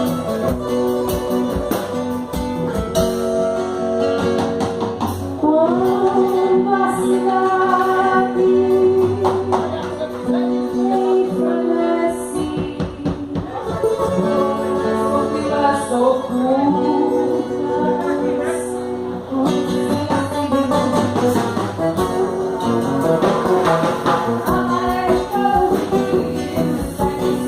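Live band music with a singer and guitar, played during a stage sound check.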